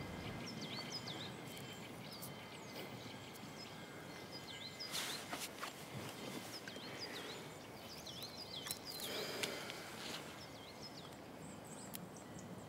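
Quiet outdoor ambience of small birds giving short, repeated chirps that bend up and down in pitch, scattered throughout. Two brief soft rustles come about five and nine seconds in.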